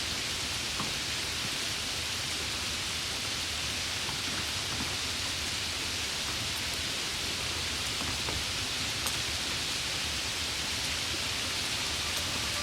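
Waterfall: a steady hiss of rushing, falling water.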